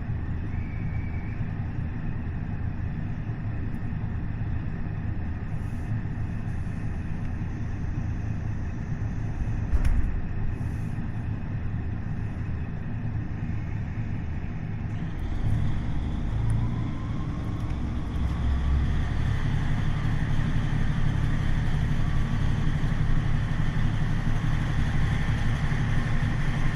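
KiHa 40 diesel railcar under way, heard from inside: its DMF15HSA diesel engine and the wheels on the rails make a steady rumble. There is a single knock about ten seconds in. About halfway through the engine takes on more load and the sound grows louder, with a steady whine over the rumble.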